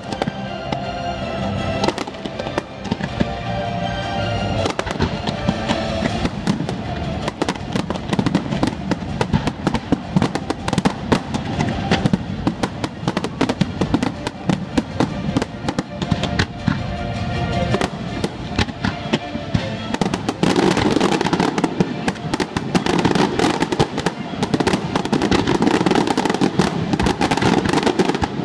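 Aerial fireworks going off in rapid succession, many sharp bursts and crackles every second, growing denser about twenty seconds in. Music plays underneath, clearest in the first few seconds.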